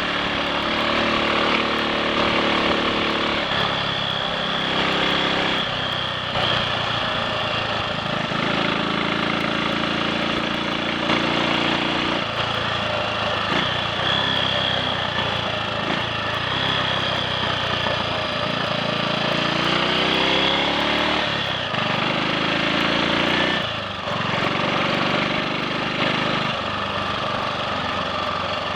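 Triumph Sports Cub's 199 cc single-cylinder four-stroke engine running on the road. Its pitch climbs and drops every few seconds with the throttle and gear changes, over a steady rushing noise. It runs without misfiring or cutting out.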